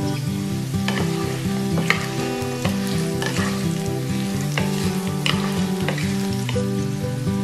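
Potato cubes sizzling in hot oil in a nonstick wok, turned with a wooden spatula that scrapes across the pan every second or so.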